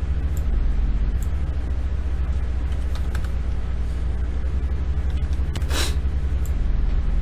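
A steady low hum in the background, with a brief hiss about six seconds in and a few faint clicks.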